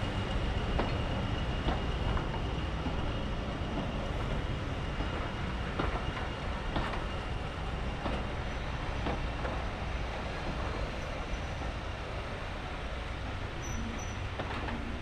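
Railway carriage running along the line: a steady low rumble, with irregular sharp wheel clicks over the rail joints.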